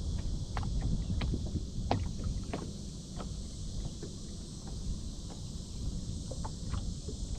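Wind rumbling on the microphone aboard an anchored small boat, with scattered light irregular clicks and taps.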